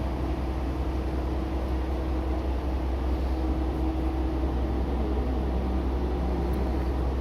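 Diesel railcar engine running with a steady low rumble and a hum; the hum wavers in pitch about five seconds in.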